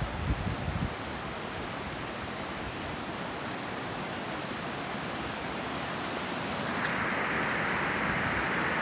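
Strong wind rushing through the trees, a steady rush of noise with low buffeting on the microphone in the first second. About seven seconds in it grows louder and brighter as a stronger gust comes through.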